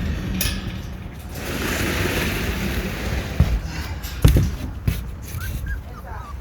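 A rustling hiss, then a few sharp knocks and thumps, then a puppy's short high whimpers near the end.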